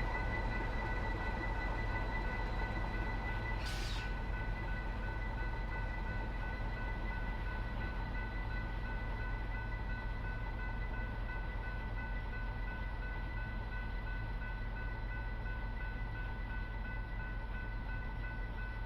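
Norfolk Southern coal train rolling past: a steady low rumble of the cars with a continuous high-pitched ringing squeal held over it. There is one brief sharp hiss or click about four seconds in.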